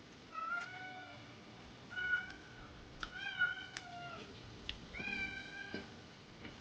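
A cat meowing four times in a row, each meow a pitched call of about half a second to a second, with a few faint clicks between them.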